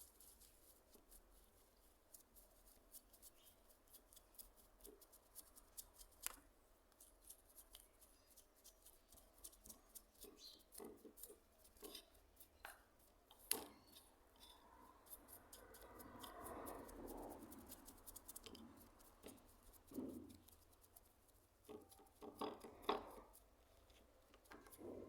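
Faint handling sounds of small parts: scattered clicks and light taps, a longer scrape through the middle, and a few sharper knocks, the loudest about halfway through and again near the end.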